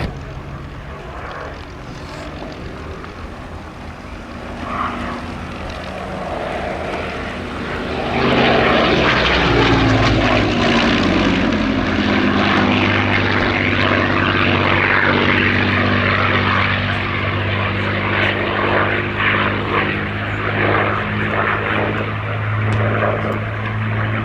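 Rolls-Royce Merlin V12 piston engine of a WWII fighter flying a display pass. It grows much louder about eight seconds in as the aircraft comes close, its pitch falls as it goes by, and a steady engine drone follows.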